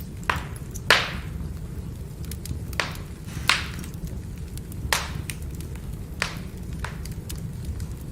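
Firewood burning and crackling: a steady low rumble with about seven sharp pops scattered through, the loudest about a second in.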